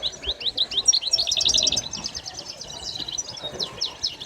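Many caged songbirds chirping at once: a steady stream of quick, high, overlapping chirps and short trills.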